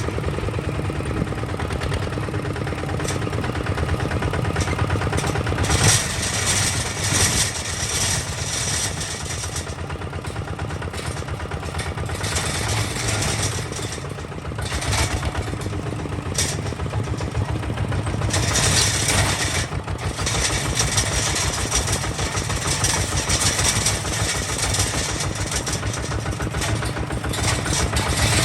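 Kubota ZT 155 DI single-cylinder diesel on a walking tractor running steadily, with a fast, even chug. A few stretches of louder high hiss and rattle come and go over it.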